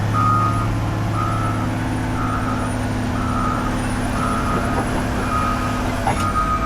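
Heavy vehicle's reversing alarm beeping about once a second on a single steady tone, over the steady running of its engine.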